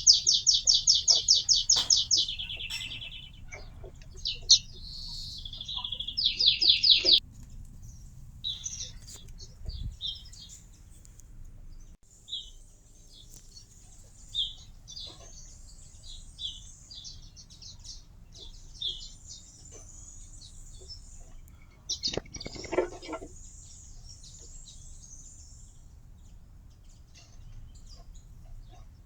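Small songbirds singing: a loud, fast trill of repeated high notes, about ten a second, over the first two seconds and again from about four to seven seconds in, then scattered chirps and twitters.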